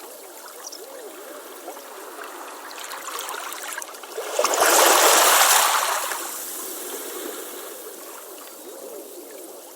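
Ocean waves on a beach: a wave breaks about halfway through with a loud rushing wash, then fades back into the lighter trickling of water running back.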